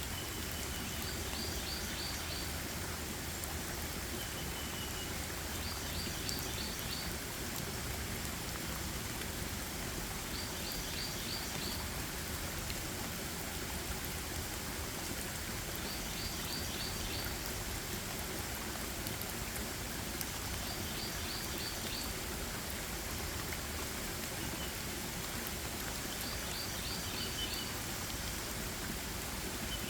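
Steady rain hiss in a forest, with a bird repeating the same short song phrase about every five seconds. Each phrase is a brief trill followed by a quick run of about five high notes.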